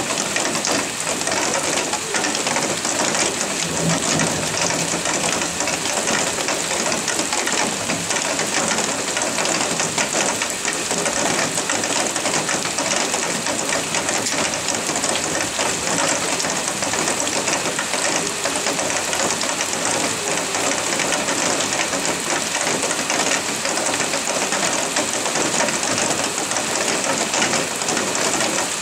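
Heavy rain pouring steadily: a dense, even hiss full of the patter of drops.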